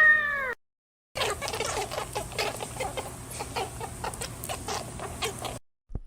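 Flock of chickens clucking: a dense run of short, overlapping calls lasting about four and a half seconds. It comes after the last half-second of a drawn-out, pitched animal call that falls away.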